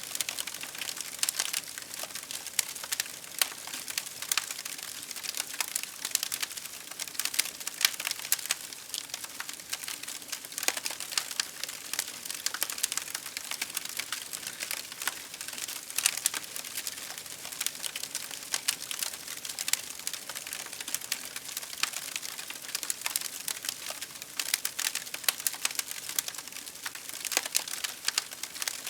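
Wood fire crackling steadily: dense, irregular pops and snaps over a soft hiss.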